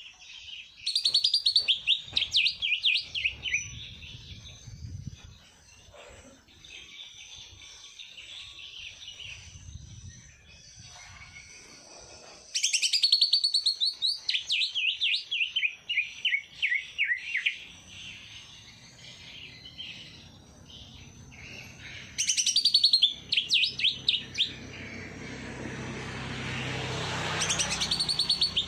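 A songbird sings loud phrases about every ten seconds, each a rapid run of chirping notes that steps down in pitch. A broad hiss swells near the end.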